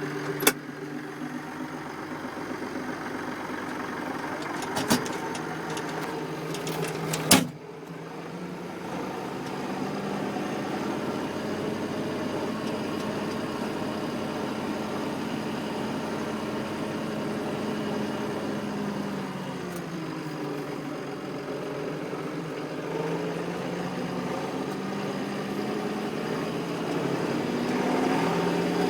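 Massey Ferguson 4220 tractor's diesel engine running, its pitch falling and then rising again as engine speed changes. Three sharp clacks come in the first eight seconds, the last the loudest.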